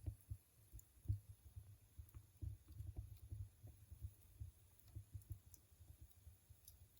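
A fire burning faintly, with an uneven low rumble and a few small crackles.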